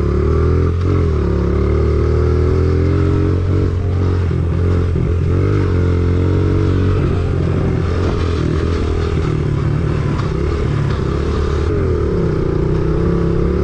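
Motorbike running, its pitch rising and falling repeatedly with the throttle, over a steady low rumble and wind noise.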